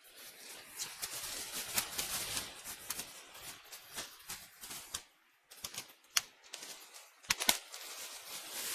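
An irregular run of clicks and clattering knocks over light rustling, with a short lull about five seconds in and two sharp knocks shortly after seven seconds.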